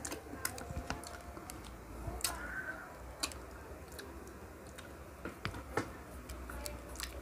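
Irregular sharp mouth clicks and smacks of pineapple being chewed close to the microphone, over a low steady room hum.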